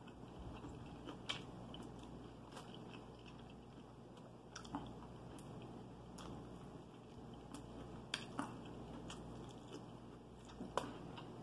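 Faint, close-up eating of fried chicken: chewing with a few scattered sharp clicks and crunches, the loudest near the end.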